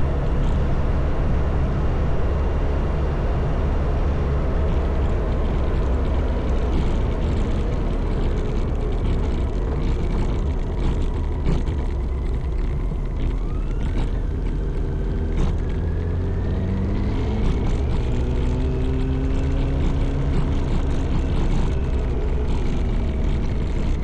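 Motorcycle running along the road, its engine note rising and falling over a steady low rumble.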